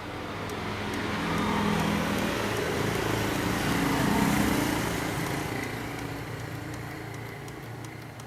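A motor vehicle's engine passing by, its hum swelling to a peak about halfway through and then fading away.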